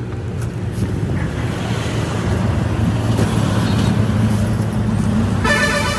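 Road traffic: a vehicle's engine running close by with a steady low rumble that swells a little, then a vehicle horn starts sounding near the end.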